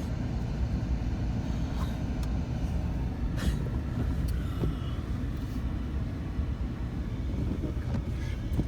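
Steady low rumble of a Ford King Ranch pickup driving slowly on a snow-covered road, heard from inside the cab, with a few faint clicks.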